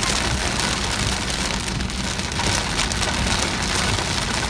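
Heavy rain beating steadily on a car's roof and windshield, a dense patter of drops over the low rumble of the car on the road.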